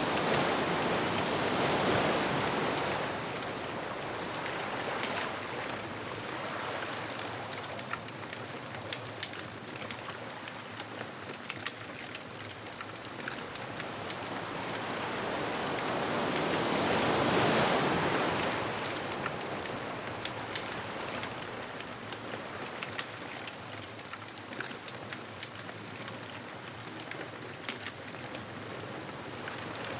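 Ocean waves washing onto a beach, two larger waves swelling and breaking about fifteen seconds apart, with a bonfire crackling in small sharp clicks throughout.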